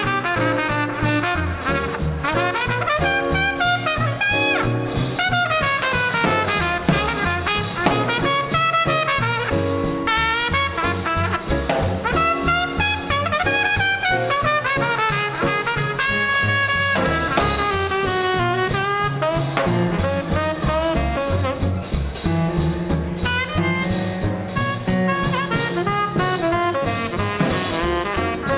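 Small-group swing band playing live with no vocal, a horn carrying a winding solo line over piano, walking bass and drums keeping a steady swing beat.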